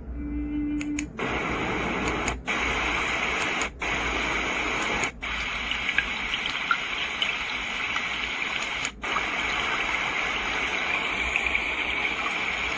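HOMGEN baby white noise machine playing one of its water sounds, a steady rushing like running water, after a short low tone about the first second. The rushing drops out briefly about four times.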